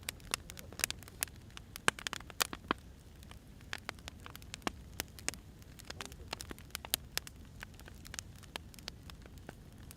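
Burning firewood crackling, with irregular sharp pops and snaps over a low steady rumble of the fire.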